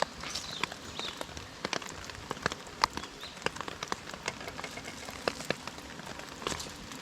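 Rain falling: a steady hiss of rain with irregular, scattered drops striking a surface close by.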